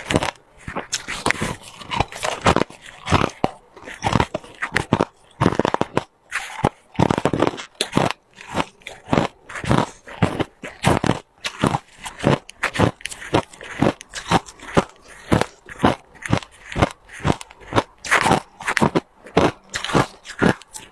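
Hard ice being bitten and chewed close to the microphone: a steady run of sharp, irregular crunches, about two or three a second.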